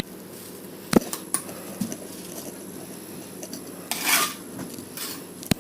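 Bricklaying work: a few sharp clinks and knocks of hard tools and bricks, with a short scraping rub about four seconds in.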